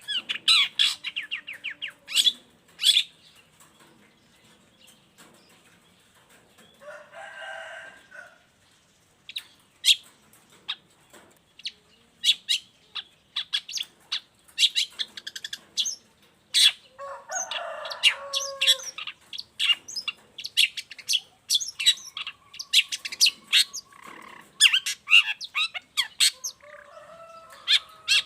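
Long-tailed shrike singing a rapid, varied song of short, sharp high notes, broken by harsher, lower scratchy phrases about seven and eighteen seconds in.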